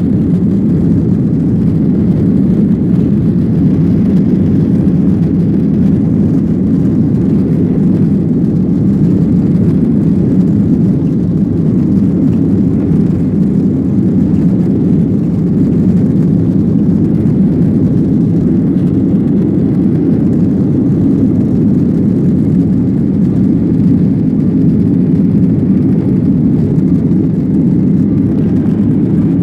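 Jet airliner heard from inside the cabin during take-off: a steady, loud, low drone of engines and airflow that holds constant, with no changes in pitch.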